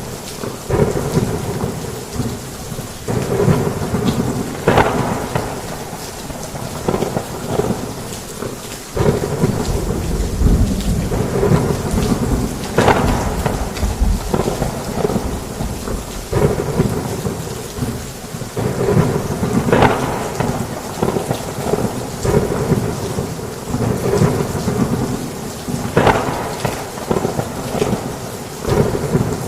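Heavy rain falling steadily with rolling thunder. A deep rumble swells about nine seconds in, with a few sharper claps scattered through.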